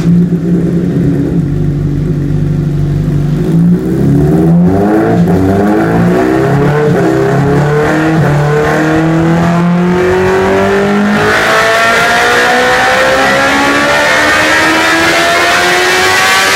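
2009 Honda CBR1000RR's inline-four engine, breathing through a Racetec exhaust, run on a dyno: it holds a steady engine speed for about four seconds, then climbs through the revs in one long, steady rise, turning harsher about eleven seconds in.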